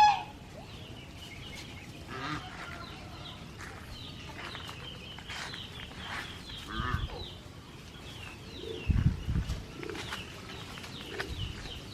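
Domestic geese and ducks calling, with honk-like calls several times among many short, high chirps that repeat throughout. Two low thumps, about two-thirds and three-quarters of the way through, are the loudest sounds.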